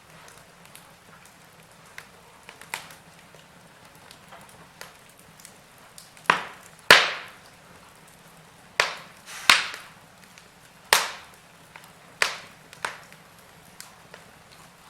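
Wood fire crackling in a fireplace: irregular sharp pops and snaps over a faint steady hiss, with a run of louder pops in the second half.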